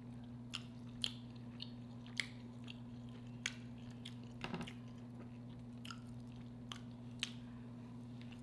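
Close-miked chewing of red snapper: scattered short, wet mouth clicks and smacks, a small cluster about halfway through, over a steady low hum.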